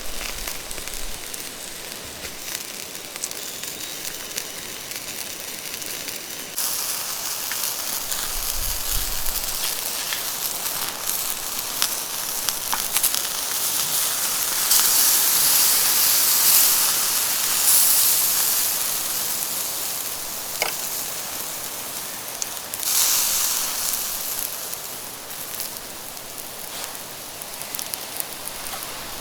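Rain falling steadily with many small crackles and patters, turning heavier and hissier about six seconds in. A bonfire crackling is mixed in with it.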